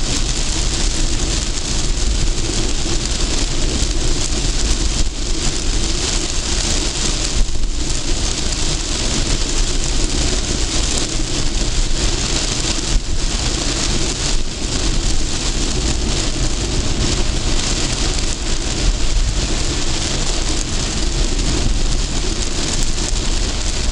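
Very heavy rain hitting a moving car, a dense steady hiss over the low rumble of the road and engine, dipping briefly a few times.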